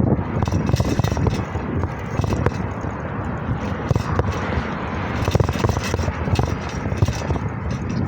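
Bicycle riding noise: a steady rumble of tyres on a rough surface, with frequent small rattles and clicks from the bike.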